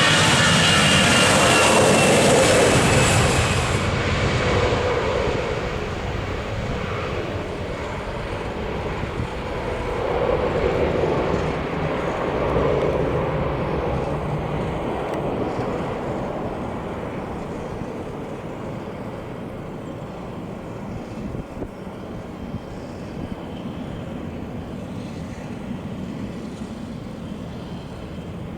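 Airbus A320-214's CFM56-5B turbofans at takeoff power as the airliner climbs away: a loud jet roar with a fan whine falling in pitch, the high hiss dropping away about four seconds in, then a low rumble slowly fading.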